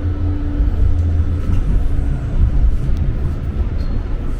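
A steady low rumble of wind buffeting the microphone and road noise from a moving bicycle. A faint hum fades out about two seconds in.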